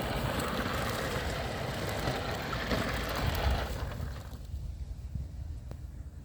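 3D-printed mouse droid driving, its small electric drive motors and wheels making a steady whirring, rolling noise that fades out about four seconds in. A low rumble carries on underneath to the end.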